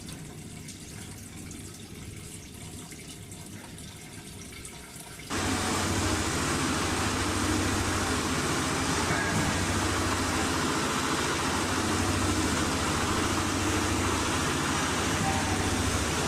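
Small water-cooled single-cylinder diesel engine running steadily with a fast, even low beat. It comes in suddenly and much louder about five seconds in, after a quieter stretch of steady hum and hiss.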